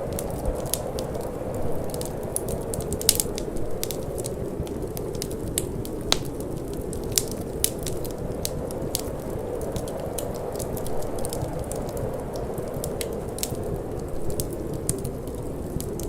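Wood fire crackling in a fireplace, with irregular sharp snaps and an occasional louder pop, over a steady low rush of cold wind.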